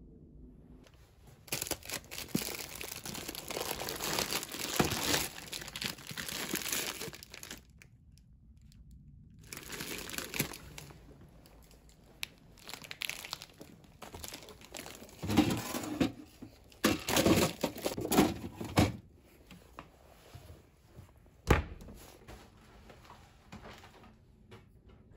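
Grocery bags and packaging being handled: irregular bursts of crinkling and rustling, with a short pause partway through, and a single sharp knock near the end.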